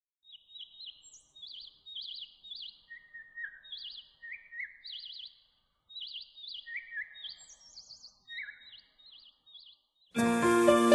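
Small birds chirping in a quick string of short, warbling chirps, some higher and some lower in pitch. Music starts abruptly near the end.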